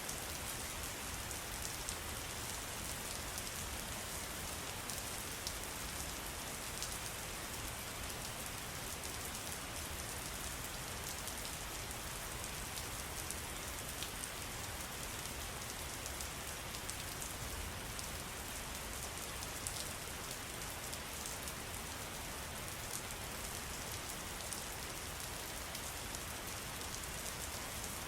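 Steady patter of falling water, with many small drips standing out as faint clicks.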